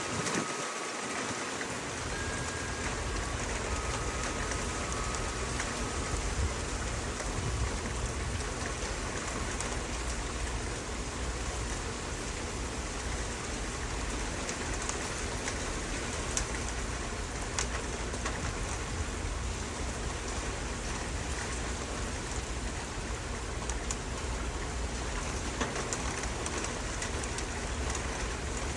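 Steady rain falling: an even hiss with scattered sharper ticks of drops.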